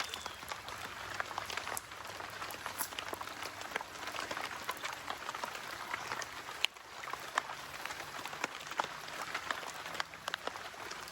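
Rain falling and pattering: many small, irregular drop ticks over a steady hiss.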